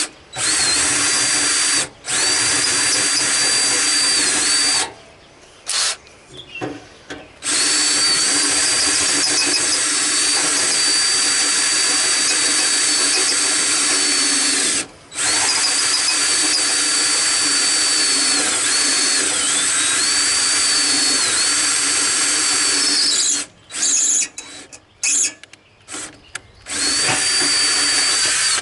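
Electric drill running with a steady whine as a larger bit enlarges the drilled-out tack-weld holes in the mower's sheet-metal hood. It runs in long stretches with brief stops, the pitch dipping now and then as the bit bites. Near the end come several short stop-start bursts.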